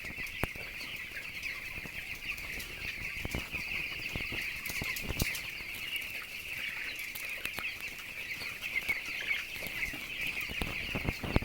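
A large flock of young chicks peeping all together in a dense, continuous high chatter. Scattered sharp clicks and knocks come through, the loudest a few seconds in and near the end.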